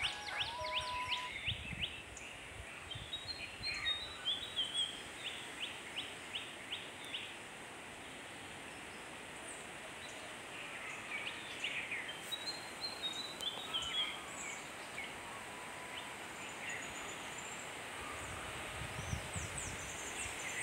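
Outdoor ambience of birds singing and chirping over a steady hiss, with fast repeated trills in the first few seconds and another run of chirps about two thirds of the way through. A few low thumps come near the start and near the end.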